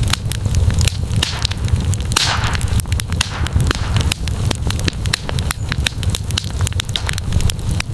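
Wood campfire crackling, with frequent sharp pops over a steady low rumble of the flames and a short hiss about two seconds in.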